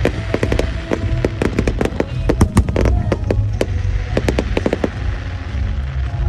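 Aerial fireworks bursting in quick succession, a dense run of sharp bangs and crackles with a deep rumble beneath, and music playing underneath.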